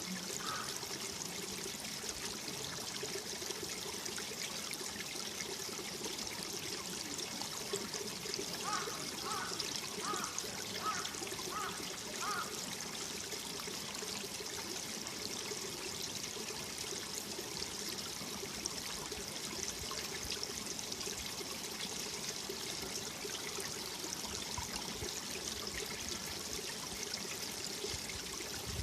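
Mountain valley stream running steadily over rocks, an even rush of water. A quick run of about seven short notes sounds over it near the middle.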